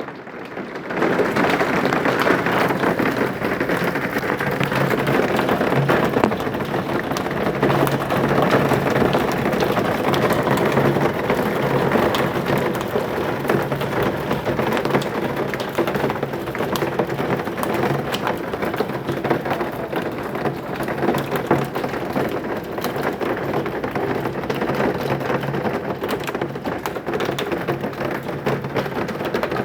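Heavy thunderstorm downpour, a dense, steady drumming of many drops on surfaces, swelling sharply about a second in.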